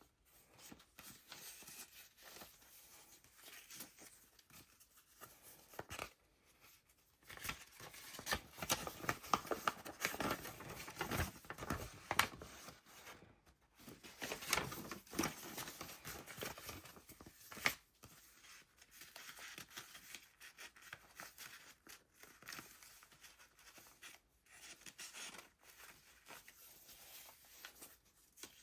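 Paper rustling and crinkling as the thick, layered pages of a handmade junk journal are turned and handled, louder in stretches, with a few sharp taps.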